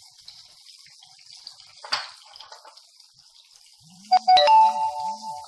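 Cumin seeds and sliced green chillies sizzling faintly in hot oil in a pan, with a single click about two seconds in. About four seconds in a loud electronic tone of several held notes, like a ringtone, cuts in over the sizzle and rings on.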